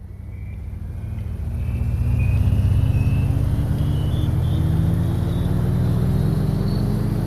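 A motor vehicle's engine running and slowly gaining speed, its pitch climbing steadily, with a thin whine rising alongside it; it fades in at the start and is steady and loud after about two seconds.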